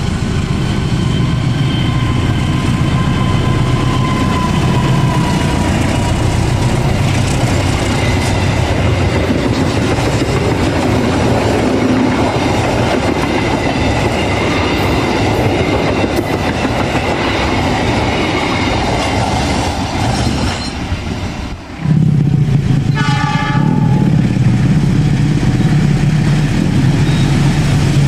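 Diesel-hauled passenger train passing at speed: wheels clattering on the rails, with thin steady squeal tones over the rolling noise. About 22 seconds in the sound cuts off abruptly, and a diesel locomotive's steady engine drone takes over, with a short horn blast about a second later.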